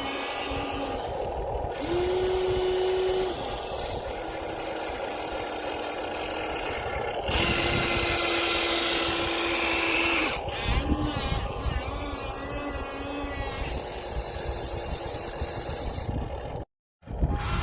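Small electric motors of Huina 1592 and 1593 radio-controlled excavator models whining, in steady tones that switch on and off and step up and down in pitch as different functions are run, over a gritty scraping noise. The sound drops out completely for a moment near the end.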